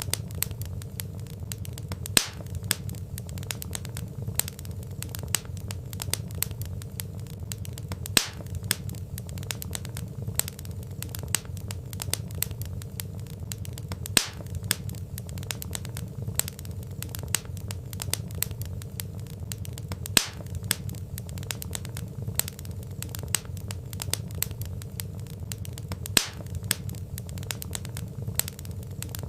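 Wood fire crackling in a fireplace: a constant patter of small snaps over a low steady rumble of the flames, with a louder pop about every six seconds.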